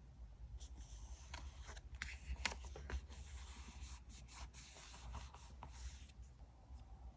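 Paper being handled and rubbed during diary decorating: a run of short scratchy rubs and rustles, with a sharper stroke about two and a half seconds in.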